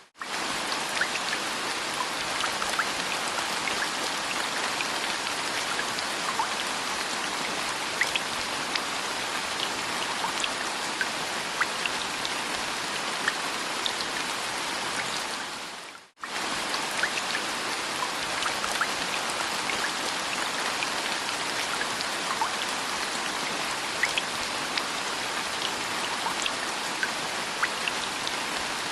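Steady rain falling, with many small separate drop ticks over an even hiss. The rain briefly fades away about sixteen seconds in and comes straight back.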